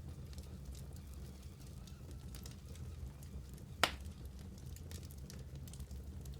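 Wood fire burning in a fireplace: a low steady rumble of the flames with scattered soft crackles, and one sharp loud pop a little before four seconds in.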